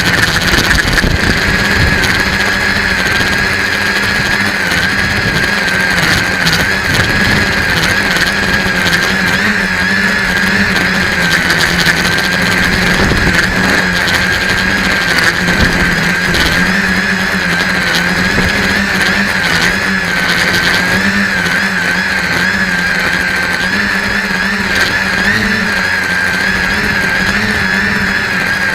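RC tricopter's electric motors and propellers whining steadily, the pitch wavering up and down as the speed shifts, with wind buffeting in a rough low rumble underneath.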